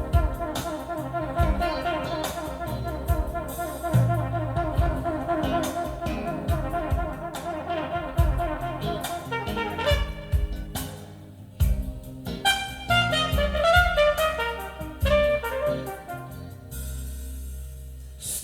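Live jazz band playing an instrumental passage led by a brass horn over drums, heard as playback from a cassette tape recording. Fast repeated horn notes fill the first half, and after a short break a rising and falling melodic line follows.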